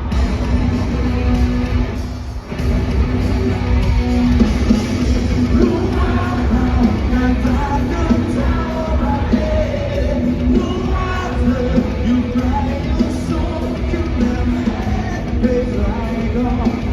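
Live rock band playing at full volume, with guitars, bass, drums and singing, heard in a large arena hall. The music drops briefly about two seconds in, then comes back.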